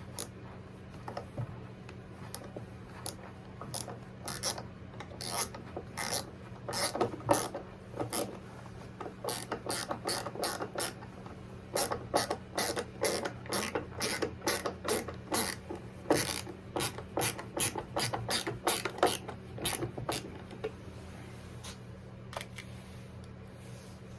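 Ratcheting screwdriver clicking in runs of quick clicks as small screws are turned in by hand, busiest through the middle and dying away near the end.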